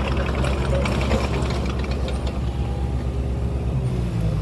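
Heavy diesel earthmoving machinery running steadily, a low engine drone with metallic clanking and rattling over the first couple of seconds that then thins out.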